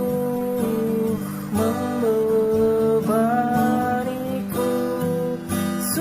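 Acoustic guitar strummed under a sung melody of held notes that slide up into pitch.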